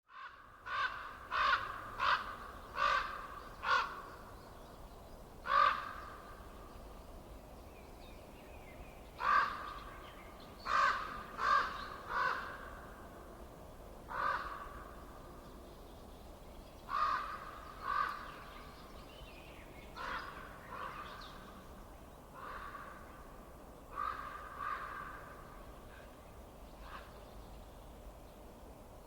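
A bird giving about twenty short, loud calls, mostly in quick runs of two to five with pauses of a few seconds between, over a faint steady hiss.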